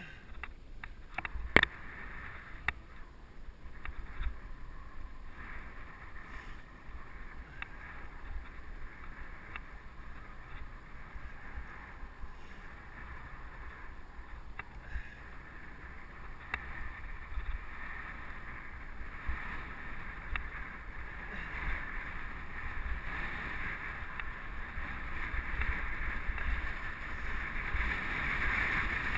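Mountain bike riding on a dirt trail, heard from a helmet camera: a steady rush of wind and tyre rumble with scattered clicks and knocks from the bike over rough ground, one sharp knock about one and a half seconds in. The rush grows louder over the last ten seconds as the bike picks up speed.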